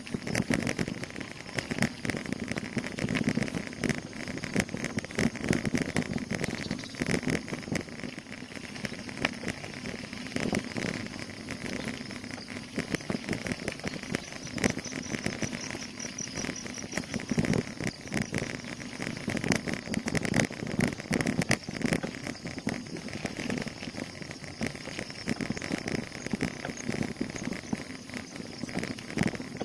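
Bicycle being ridden on a rough road: a steady run of rattles and small knocks with rumbling underneath, over a constant high insect buzz.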